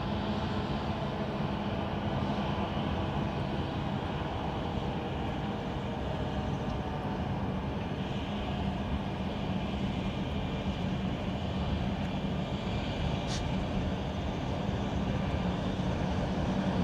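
Steady distant rumble and low drone of a freight train's diesel locomotives and cars crossing a long bridge, with one brief high squeal about thirteen seconds in.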